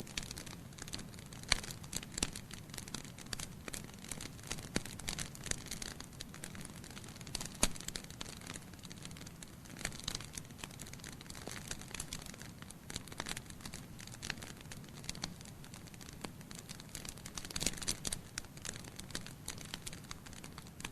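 Wood fire of burning logs in a fireplace, crackling with irregular sharp pops over a steady low hiss, and a few louder pops, the loudest about a second and a half in and at about eight seconds.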